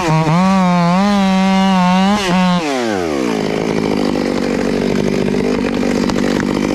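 Chainsaw at full throttle cutting, its pitch wavering under load. About two and a half seconds in the throttle is released and it winds down to idle, then runs at idle.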